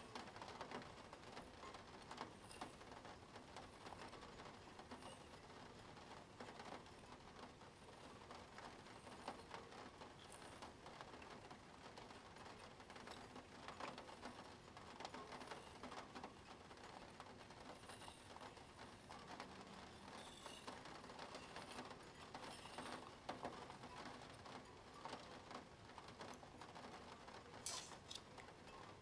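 Plastic Spirograph gear wheel being turned around its toothed ring with a pen, giving a faint, continuous run of small clicks and scratching.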